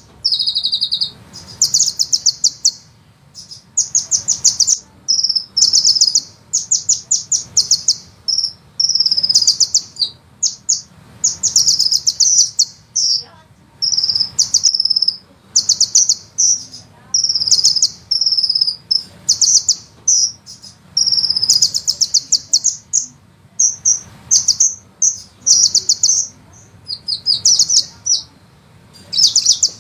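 Sunbird song: repeated high, very fast rolling trills and rapid-fire chattering bursts, each lasting about a second, with short pauses between.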